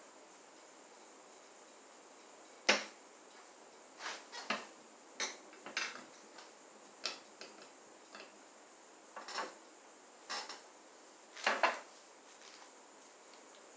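Metal brake parts and hand tools being handled: scattered irregular clinks and knocks, the sharpest about a fifth of the way in and again near the end.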